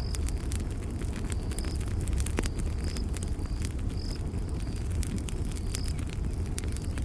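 Campfire burning with a steady low rumble and frequent sharp crackles and pops, with a short high chirp, typical of a cricket, repeating every second or so in the background.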